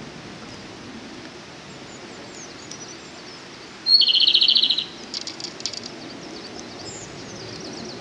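Japanese robin singing one short song about four seconds in: a high opening note dropping into a fast rattling trill lasting under a second. Fainter high chirps come and go around it.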